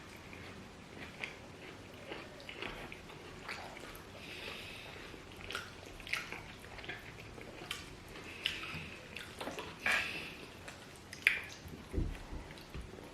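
Close-miked eating sounds: chewing of boiled yam and plantain with stew, with irregular wet mouth clicks and smacks that get louder near the end.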